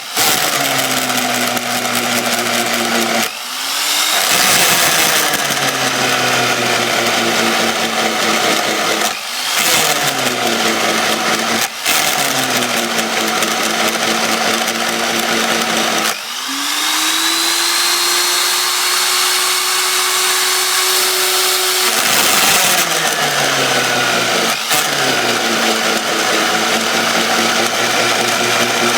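Homemade drilling machine's electric motor driving a 30 mm hole saw into a 9 mm-thick workpiece. The motor pitch sags each time the saw bites and cuts, and recovers as the load eases. About 16 seconds in, the motor speeds up to a higher, steady pitch for several seconds before cutting resumes.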